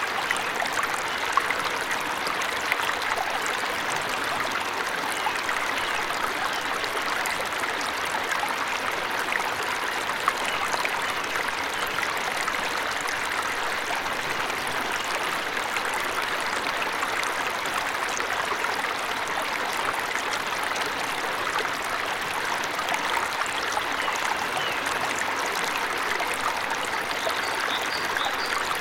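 Waterfall: a steady, even rush of falling and splashing water with a fine trickling texture and no breaks.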